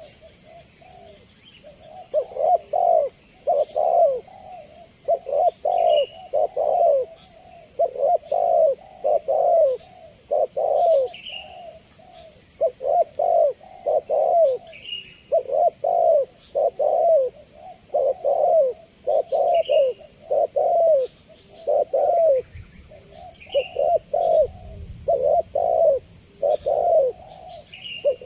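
Spotted dove (tekukur) cooing over and over in short phrases of a few low coos, one phrase about every two seconds, with a faint high chirp every few seconds.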